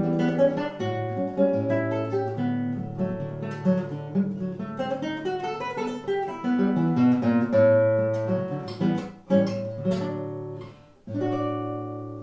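Solo acoustic guitar playing a fast, plucked Brazilian choro melody with bass notes. It comes to a final chord about eleven seconds in, which is left to ring and fade.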